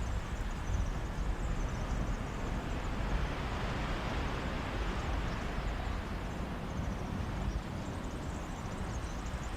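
Mediterranean sea waves washing onto a beach in a steady breeze, a continuous rushing wash over a low rumble, swelling slightly around the middle.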